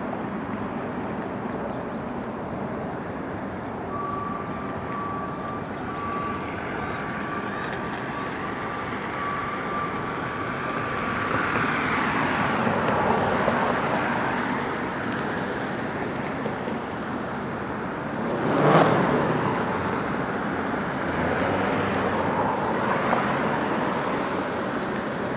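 Street traffic: several vehicles pass one after another, the closest and loudest about three-quarters of the way through. A thin, steady whine runs for several seconds in the first half.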